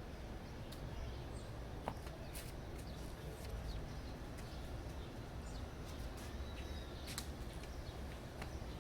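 Outdoor ambience: a steady low rumble of wind on the microphone, with a few scattered faint clicks and a faint bird chirp about two-thirds of the way through.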